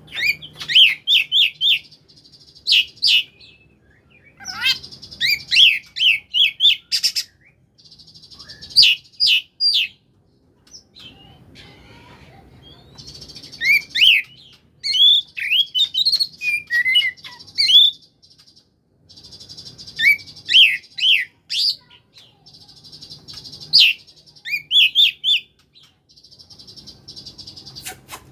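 Oriental magpie-robin (kacer) singing in the 'koslet' style. Phrases of quick whistled notes slide up and down, mixed with harsh buzzy notes, each phrase a second or two long with short pauses between.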